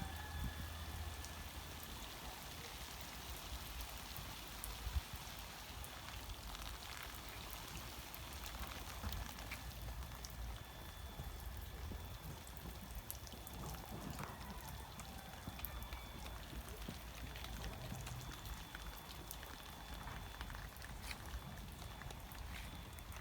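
Outdoor garden ambience: a steady patter of fine crackles over a low rumble, with a faint high steady tone and a single sharp knock about five seconds in.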